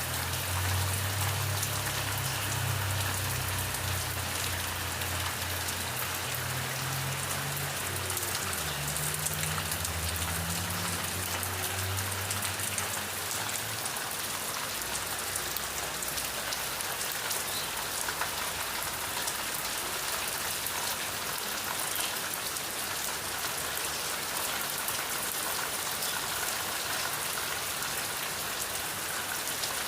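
Steady rain falling, with a dense patter of drops hitting a surface. A low rumble underneath fades out about halfway through.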